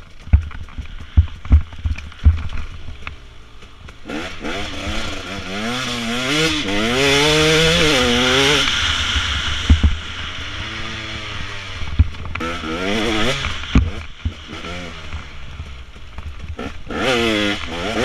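Dirt bike engines revving and riding past, the pitch rising and falling in several long pulls, loudest from about four to nine seconds in. A few sharp knocks in the first couple of seconds.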